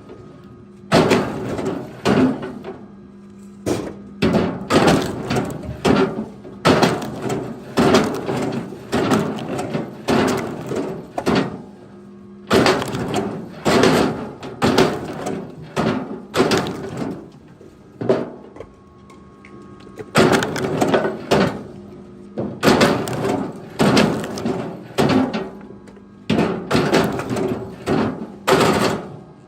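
Pieces of cut wood knocking and clattering against each other, one sharp knock about every second in several runs with short pauses, over a faint steady hum.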